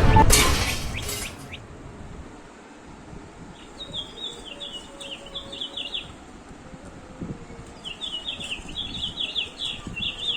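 Two runs of quick, high chirps, bird-like, the second starting about eight seconds in. A music track fades out over the first second or so.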